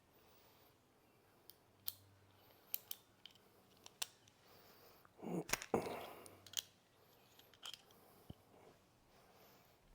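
Hand tools and small metal parts being handled: scattered sharp clicks, with a louder burst of clatter and scraping about halfway through.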